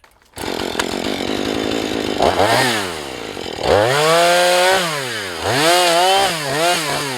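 Husqvarna 435 two-stroke chainsaw running, idling at first and then opened up twice, its pitch climbing high, holding, and dropping back as the throttle is squeezed and released.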